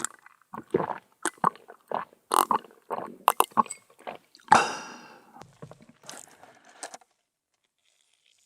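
Close-miked crunching and biting of crisp dessert: an irregular string of short crunches over about seven seconds, with the loudest about halfway through, then stopping near the end.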